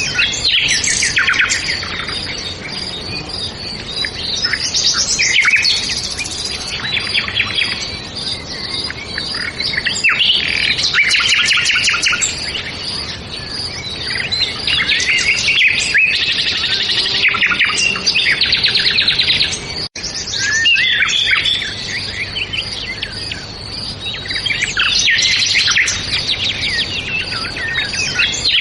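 Many songbirds singing at once, a dense, continuous chorus of overlapping chirps and rapid trills. The sound cuts out for an instant about twenty seconds in.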